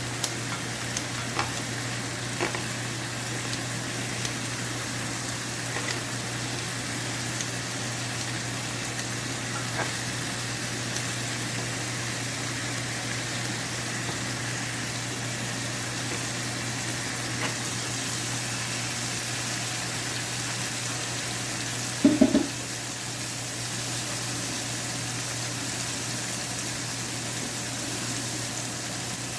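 Crushed garlic and red chili sizzling steadily in hot oil in a pan while being stirred, with scattered light scraping clicks. About 22 seconds in, a quick cluster of three loud knocks, typical of a spatula tapped against the pan. A steady low hum runs underneath.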